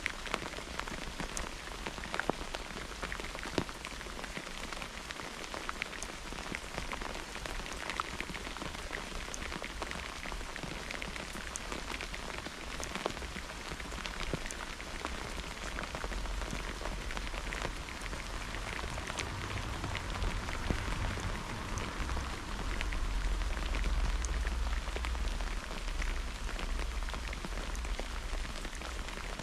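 Steady rain falling during a thunderstorm, an even hiss with many separate drop hits. A low rumble builds in the second half and then eases off near the end.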